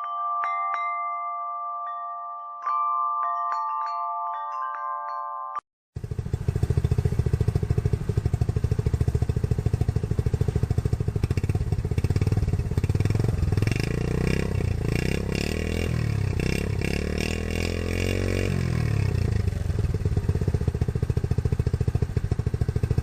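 A short ringing chime jingle, then a small 70cc Honda single-cylinder motorcycle engine running with fast even firing pulses, its pitch rising and falling a few times near the middle as it is revved.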